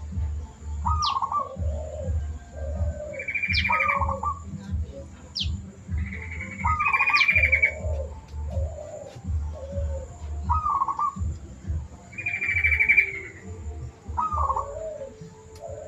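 Zebra doves (perkutut) cooing, a rolling coo phrase repeated every few seconds, with buzzy trills and quick falling whistles from other birds in between.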